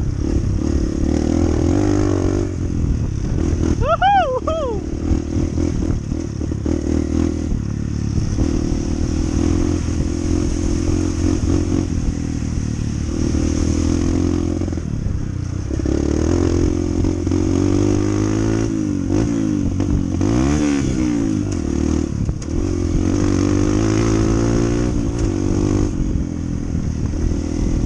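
Honda CT125's single-cylinder four-stroke engine running steadily under way, its pitch rising and falling briefly about two-thirds of the way through as the throttle changes.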